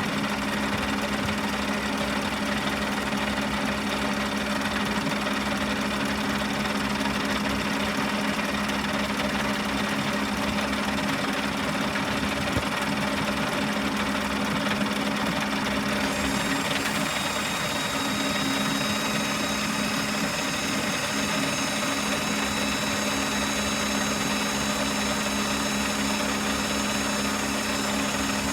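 A motor or engine running steadily with an even hum. A faint high whine joins about halfway through.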